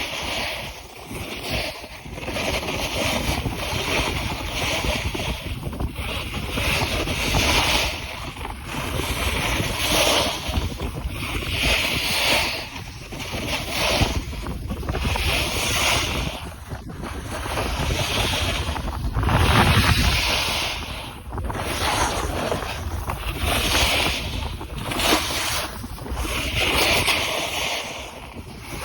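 Wind buffeting the microphone, with a low rumble and a hissing swish that swells and fades about every two seconds.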